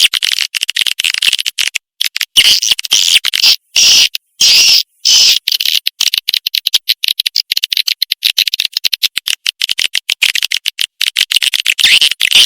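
Swiftlet lure call: rapid, high twittering chirps of swiftlets in fast runs, broken by short pauses, played to attract the birds.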